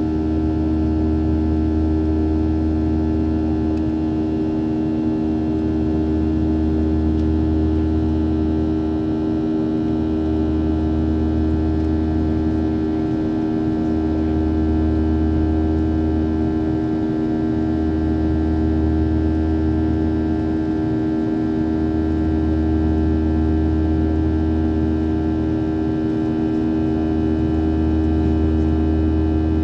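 Boeing 737 jet engine and airflow drone heard inside the passenger cabin: a steady hum with a low rumble that dips briefly every few seconds.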